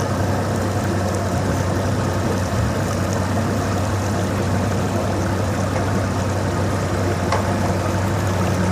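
Motorboat engine running steadily with an even low hum.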